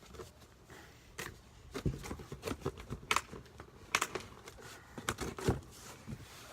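Handling sounds from rummaging in a cardboard shipping box of bike parts: irregular clicks and knocks with rustling of packaging, busiest in the middle few seconds.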